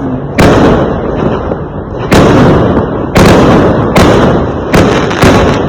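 Fireworks going off: a run of loud, sudden bangs, about six in the space of five seconds at uneven intervals, each fading away over a second or less before the next.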